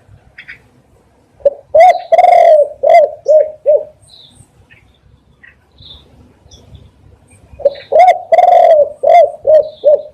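Spotted dove cooing: two loud phrases, each a run of about six short coos with one longer note among them, some four seconds apart. Faint high chirps of other small birds sound between the phrases.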